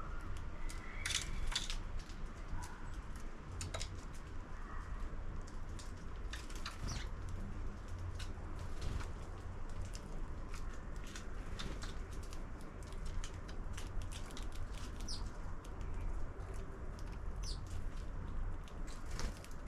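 Sparrows at a feeder: many sharp clicks and taps with wing flutters and a few short chirps, over a low steady rumble.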